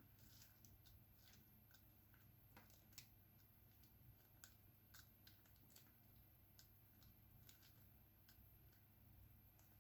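Faint, irregular light clicks and taps, typical of resin diamond-painting drills being picked up and pressed onto the sticky canvas with a drill pen, over a low steady hum.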